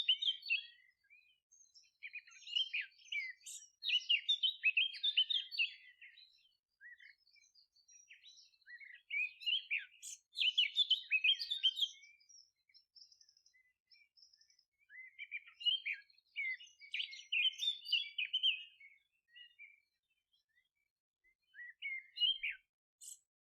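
Songbirds chirping and twittering in quick, high-pitched bursts of song a few seconds long, with short pauses between them.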